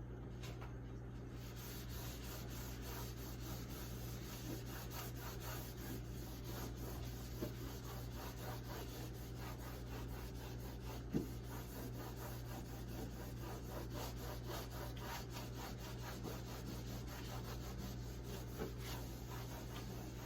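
A paper tissue being rubbed quickly back and forth against the side of a refrigerator, scrubbing off stains with bleach cleanser. It makes a continuous run of rapid scraping strokes that starts about a second and a half in, with one light knock about halfway through.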